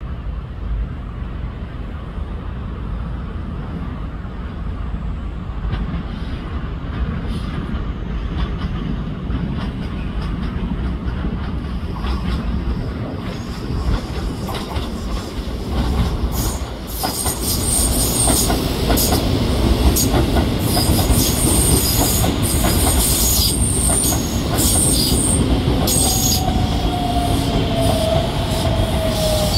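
Chiba New Town Railway 9800-series electric train arriving at a station: a low rumble that grows louder as it approaches, then wheels clicking over rail joints and squealing high as the cars run past. Near the end a falling whine sounds as the train slows.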